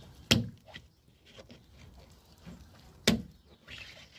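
Two sharp knocks on a Peugeot 308's driver's door, about three seconds apart, each with a short ring after it.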